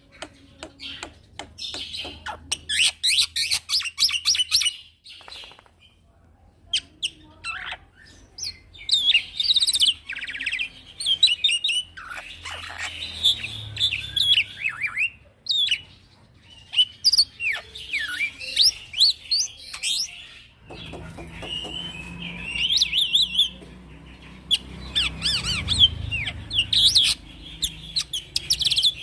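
Young male black-winged starling (jalak putih) singing a long, varied run of rapid chirps, whistles and trills, in bursts with short pauses between phrases. A low rumble sits under the song in the later part.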